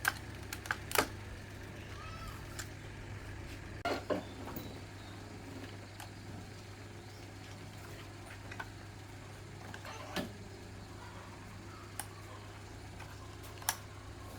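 Scattered sharp clicks and knocks, several seconds apart, over a steady low hum.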